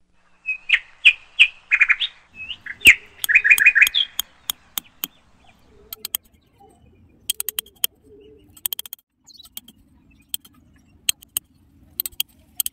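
A bird chirping in a quick run of short high calls over the first four seconds. After that come scattered sharp clicks and faint scraping as a rusty nail is pushed into dry sandy soil to poke small holes.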